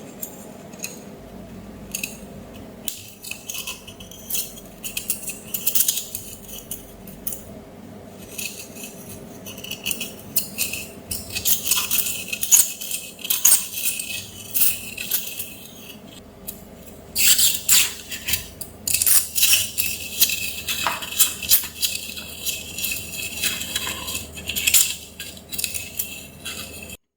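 Busy clinking, clicking and scraping of small hard objects, like tools and metal parts being handled during disassembly, in dense irregular bursts that grow busier about halfway through, over a faint steady hum.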